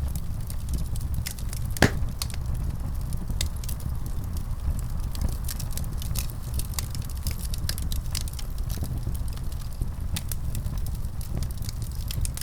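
Wood fire in a fireplace crackling, with irregular sharp pops over a steady low rumble of the flames. One louder pop comes about two seconds in.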